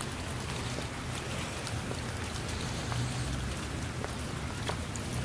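Steady rain falling on a shallow puddle and small rivulet, with single drops now and then plinking louder on the water. A steady low rumble runs underneath.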